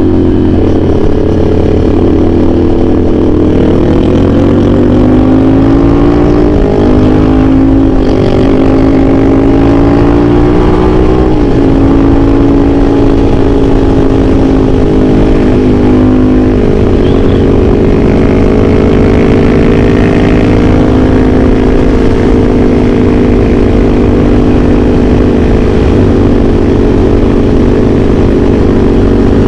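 CFMOTO 450SR S parallel-twin engine with an aftermarket AR exhaust, heard while riding: it pulls up through the gears, rising in pitch and dropping back at three upshifts, then settles into a steady cruise.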